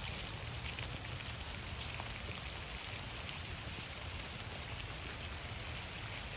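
Steady rain falling, with scattered drops ticking on surfaces close by.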